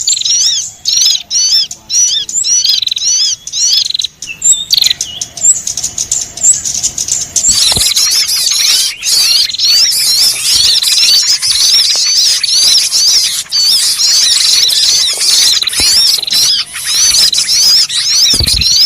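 Bird-lure recording of small birds calling in a loud, busy chorus of quick, high chirps. A repeating call of a few notes a second gives way, a little over seven seconds in, to many birds chirping over one another.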